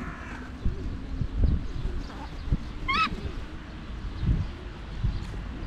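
A single short, wavering bird call about three seconds in, over scattered low knocks and rumbles.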